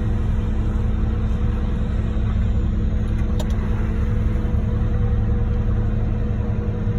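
Diesel engine of a concrete mixer truck running steadily, a low even drone with no change in pitch.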